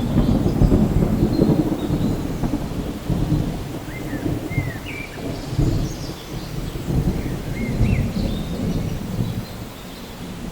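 Thunderstorm: thunder rolling and rumbling continuously over steady rain, the rumble swelling and easing and growing somewhat quieter near the end. A few short high chirps sound around the middle.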